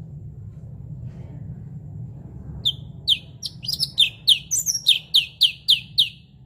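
Cucak cungkok singing: starting a little under three seconds in, a quick run of about a dozen short, sharp notes, each sliding down in pitch, roughly three a second, over a faint low hum.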